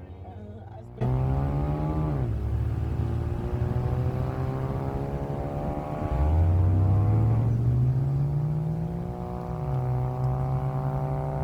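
Car engine accelerating under load, its pitch climbing steadily and then dropping sharply as it shifts up a gear, twice. It cuts in abruptly about a second in.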